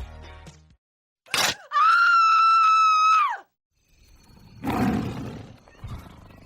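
A loud, high-pitched scream held at a steady pitch for about a second and a half, then cut off. It follows a short upward sweep, and a brief noisy burst comes near the end.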